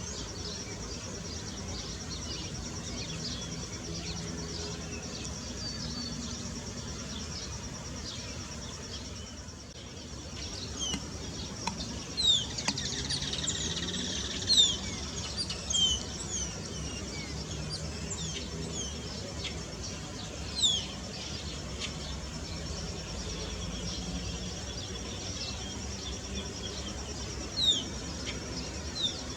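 Small birds chirping and twittering in quick, high, short notes, busiest from about ten seconds in, over a steady high insect buzz.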